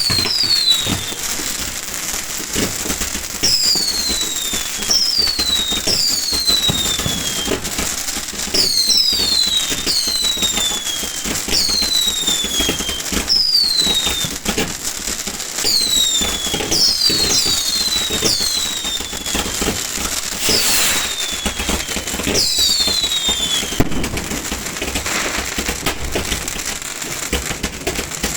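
Fireworks going off without pause: constant crackling and bangs, with many short whistles that each fall in pitch over about half a second, some coming in quick pairs.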